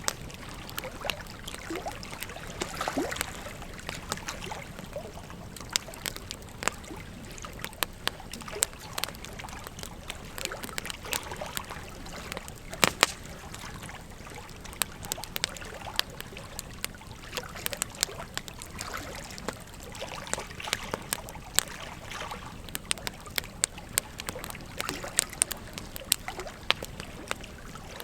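Wood fire crackling with many irregular sharp pops, a couple of louder ones about halfway through, over the steady rush of a flowing river.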